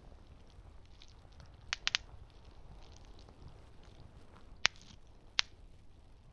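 Campfire crackling, with sharp pops of burning wood: a quick cluster of three about two seconds in and two louder single pops near the end, over a low steady rumble.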